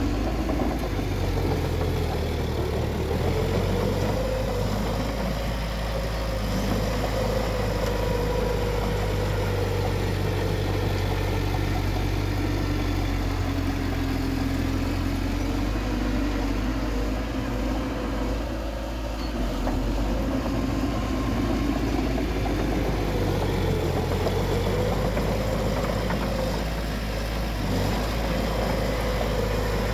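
Bulldozer's diesel engine running steadily at work, its pitch sagging through the middle as it bogs under load and rising again near the end.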